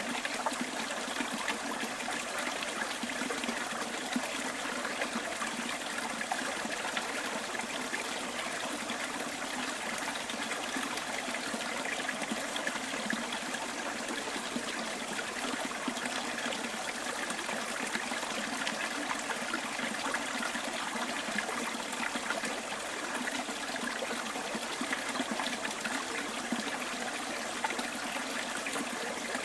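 A small bush stream trickling and babbling over stones in a steady, even rush of water.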